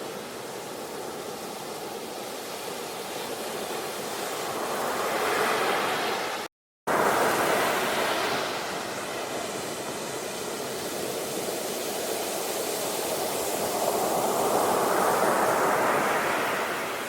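Ocean surf: waves washing in and drawing back, the hiss of water swelling and fading in slow cycles several seconds apart. The sound cuts out for a split second about six and a half seconds in, then returns at full swell.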